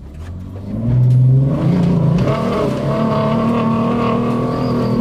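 Engine of a stock-class off-road Suzuki Grand Vitara pulling away: it gets louder about a second in, its pitch climbs, then it holds steady at higher revs as the car drives on.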